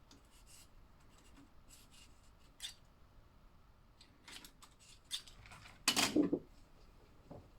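Hands handling a plastic slot car track and car, making scattered sharp clicks and scrapes. A louder short clatter comes about six seconds in.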